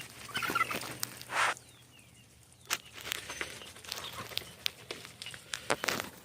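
Chickens, ducks and turkeys at their feed: scattered short taps and rustles of pecking and footsteps, with the odd cluck.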